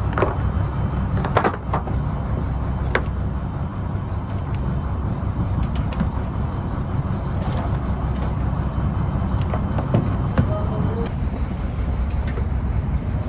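A trawler's diesel engine running steadily as a low rumble, with a few sharp knocks over it.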